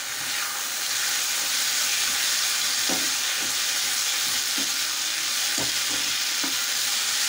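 Chopped onion and capsicum sizzling steadily in hot oil in a pan, just after soy sauce has been poured in, growing a little louder about a second in. A metal spatula scrapes against the pan several times as the vegetables are stirred.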